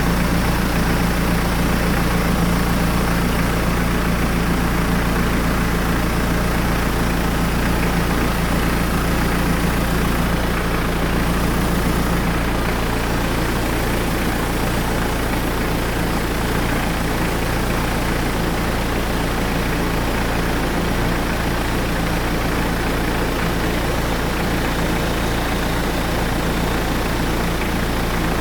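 Hyundai D4BH 2.5-litre four-cylinder turbodiesel idling steadily while its oil pressure is checked. The sound softens slightly about halfway through.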